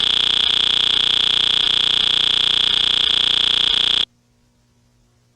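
Loud, harsh electronic buzzing tone, steady and evenly pulsing, that cuts off suddenly about four seconds in.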